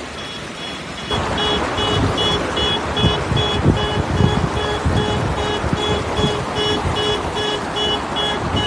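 Rapid electronic beeping at one high pitch, about three beeps a second, over a loud rushing noise with low rumbles that comes in about a second in.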